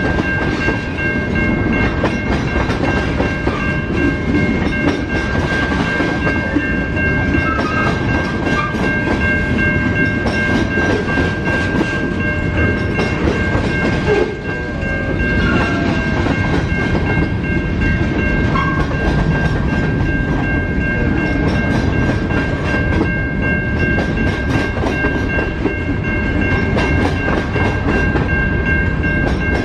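A train rolling past at close range: steady rumble of wheels on rail with continual clickety-clack, and steady high-pitched tones held over it.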